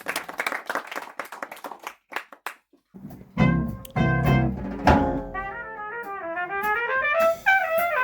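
Audience applause tapering off, then after a short gap a jazz tune starts: a brass lead playing the melody over drums.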